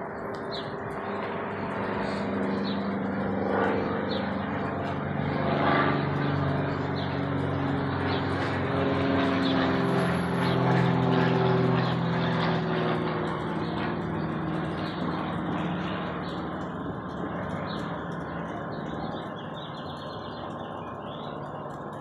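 Airplane passing overhead: its engine noise swells to a peak about halfway through, its hum dropping slowly in pitch as it goes by, then fades away.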